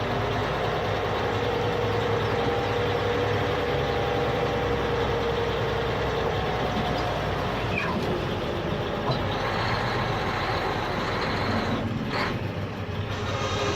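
Excavator's diesel engine running steadily, with a whining tone that swells and fades over a few seconds in the first half.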